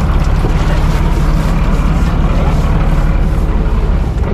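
An engine running steadily with a low rumble, with wind noise on the microphone.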